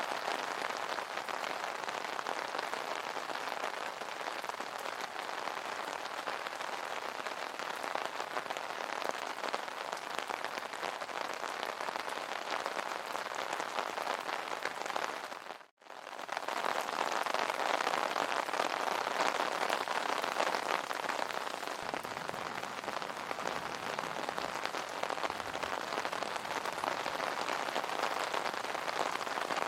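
Steady rain falling on an umbrella canopy, a dense patter of small drop impacts. About halfway through it fades out to silence for an instant and fades back in.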